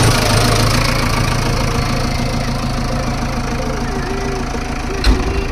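Heavy diesel engine running steadily with a low, even hum, with one sharp thud about five seconds in.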